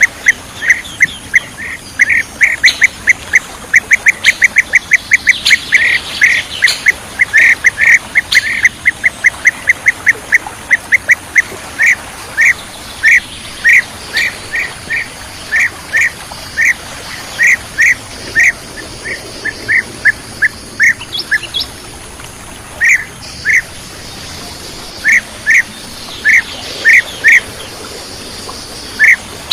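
Bee-eater calls: short, sharp chirps repeated in a fast run at first, then slower, singly and in pairs, with fainter higher notes from other birds behind.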